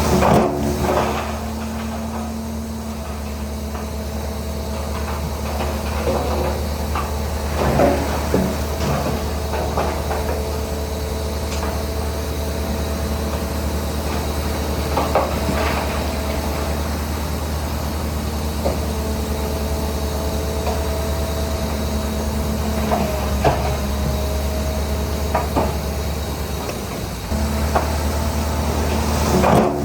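Shantui DH17C3 crawler bulldozer's diesel engine running steadily under work, with sharp metallic clanks every few seconds and drawn-out metallic squeals lasting a few seconds each, typical of steel tracks and blade linkage.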